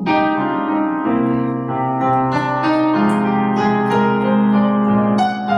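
Piano or electric keyboard playing slow, held chords between sung lines of a ballad, with the chord changing every second or so.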